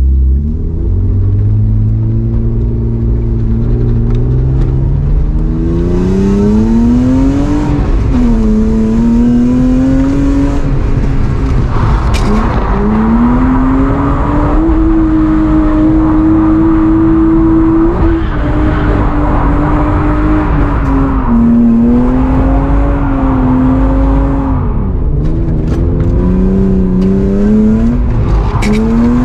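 Drift car's engine running hard under throttle. Its pitch climbs steadily over the first several seconds, then falls and rises again and again as the throttle is worked, with one longer steady hold in the middle.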